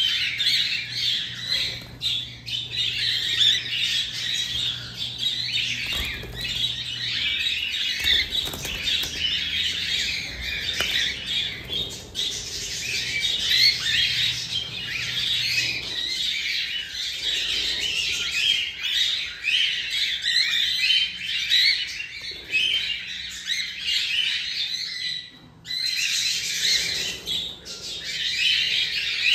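A flock of cockatiels chattering and squawking continuously, many calls overlapping.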